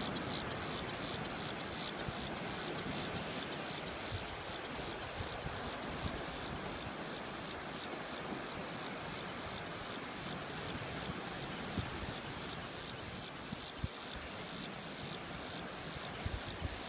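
An insect chirping in a steady, even rhythm, about three high-pitched pulses a second, over a steady background rush.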